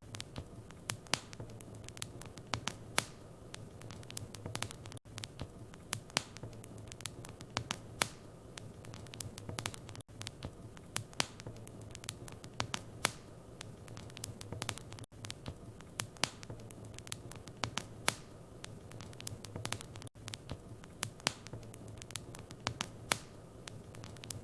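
Wood fire in a fireplace crackling, with many sharp irregular pops and snaps over a soft hiss and a low steady hum. The sound drops out briefly about every five seconds.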